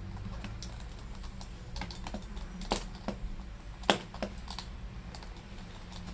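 Irregular sharp plastic clicks and taps from handling a laptop and small tools, a few louder knocks among them.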